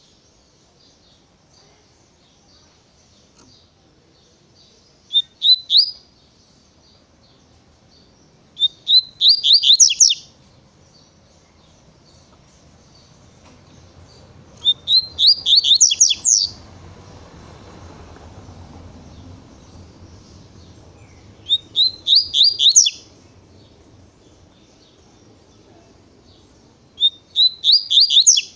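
Double-collared seedeater (coleiro) singing its 'tui-tui' song: five short phrases of quick rising whistled notes, a few seconds apart, over fainter chirping.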